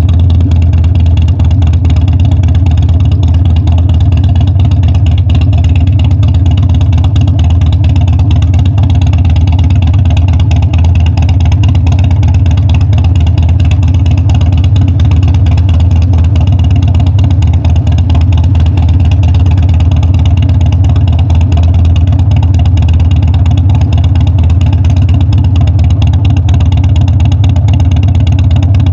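Harley-Davidson Dyna's V-twin engine running loud and steady, holding one even pitch with no revving or gear changes.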